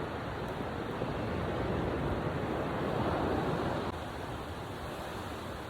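Ocean waves washing in, with a surge that builds and fades over a couple of seconds in the middle, and some wind on the microphone.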